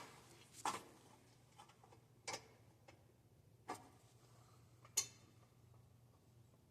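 Five faint, sharp knocks or clicks, spaced a second or more apart, over a low steady hum.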